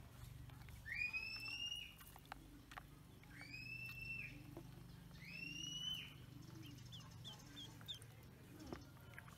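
Bird calls: three long, clear whistles about two seconds apart, each sweeping sharply up and then held, followed near the end by a quick run of four short chirps.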